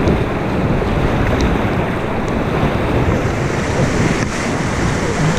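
Rushing, splashing river water around a paddled whitewater raft, loud and steady, with wind buffeting the microphone.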